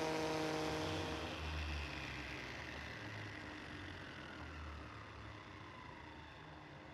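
An electric power tool's motor winding down after being switched off: a steady hum gives way, about a second in, to a whine that falls slowly in pitch while the sound fades.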